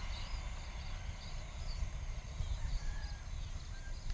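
Birds chirping in many short calls over a steady, uneven low rumble.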